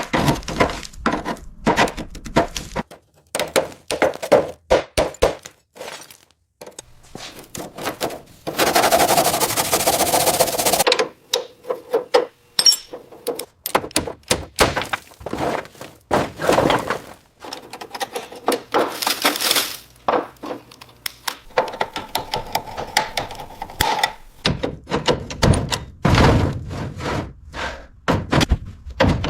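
Workshop tool noise: a fast, irregular run of knocks, taps and clicks. There is a burst of hissing noise about nine seconds in and a shorter one near twenty seconds.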